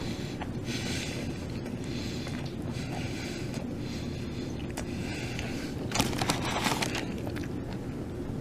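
A steady low hum, with short noisy bursts about a second in and again about six seconds in.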